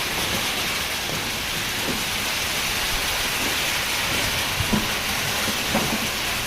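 Heavy rain falling in a steady hiss, with a couple of faint low knocks near the end.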